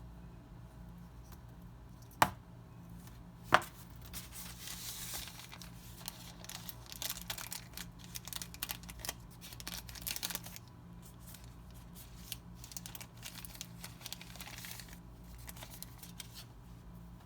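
Unboxing packaging handled by hand: two sharp clicks, then several seconds of crinkling and tearing of plastic or paper wrapping, thinning to light rustling near the end.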